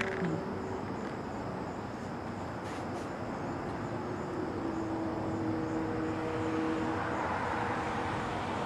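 Steady drone of a distant engine: an even rumble with a faint hum that shifts slightly in pitch, growing a little louder near the end.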